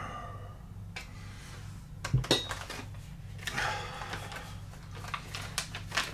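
Small RC rock slider parts handled on a workbench: scattered light clicks and knocks, a sharper knock about two seconds in, and a stretch of rustling near the middle, over a steady low hum.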